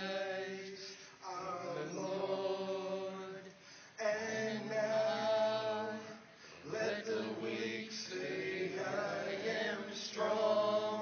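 A group of men singing a slow worship chorus together in long, held phrases with short breaks for breath.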